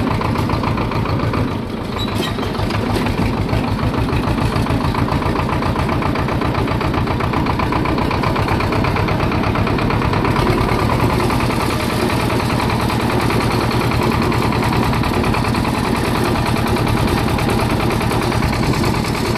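Swaraj 724 tractor's two-cylinder diesel engine running steadily, a loud, even chug.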